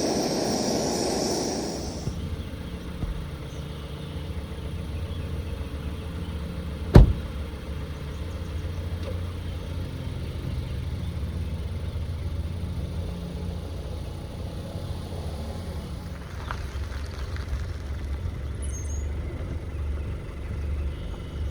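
A steady low rumble, with a hiss over it for the first two seconds and one sharp knock about seven seconds in.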